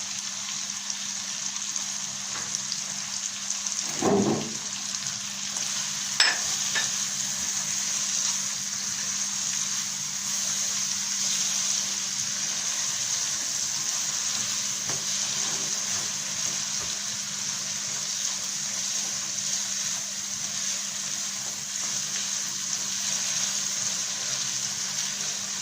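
Chicken pieces and spices frying in a pot with a steady sizzle, over a low steady hum. There is a short thump about 4 seconds in and a sharp click about 6 seconds in, like the spoon knocking the pot.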